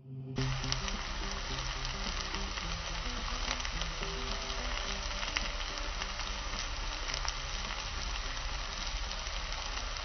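Cubes of elephant foot yam frying in oil in a stainless steel pan: a steady, even sizzle that starts suddenly about half a second in.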